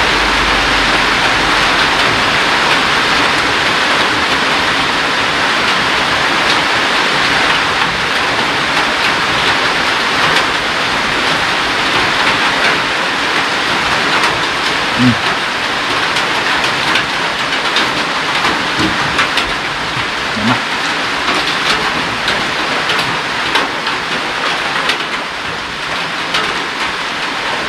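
Heavy rain falling steadily as a dense, even hiss, with scattered sharp drip ticks through the second half.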